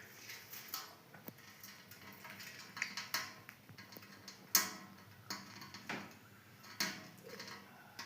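Budgerigars chattering in short, scattered chirps and clicks, with a few sharp taps; the loudest tap comes about four and a half seconds in.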